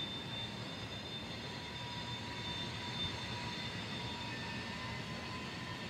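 Freight train cars rolling past at a distance: a steady rumble, with faint, thin, high-pitched tones over it.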